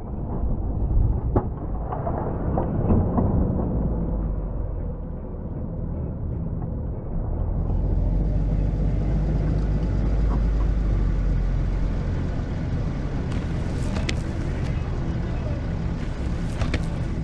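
Snowplow truck's engine running steadily, with a few sharp knocks in the first couple of seconds and a broader hiss joining about eight seconds in.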